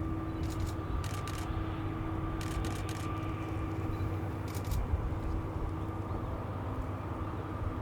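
Korail 7600-series diesel-electric locomotive running with its train: a steady engine drone with two held tones over a low rumble, broken by short groups of sharp clicks, two or three at a time, the biggest cluster about two and a half seconds in.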